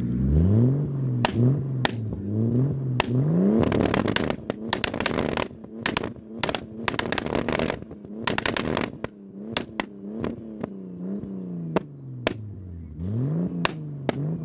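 Car engine blipped from idle again and again, its pitch rising and falling, with many sharp exhaust pops and crackles as the revs drop.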